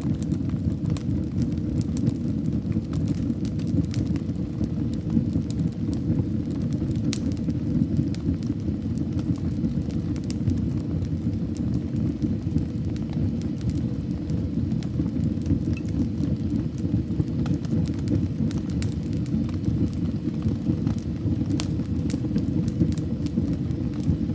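Wood fire burning in a fireplace: a steady low rumble of flames with scattered sharp crackles and pops, which come thicker near the end.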